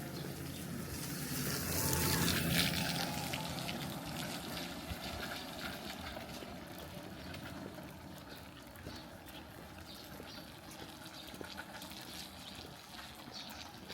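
Rain falling with water running. The water noise swells loudest about two seconds in, then eases to a steady patter of drops.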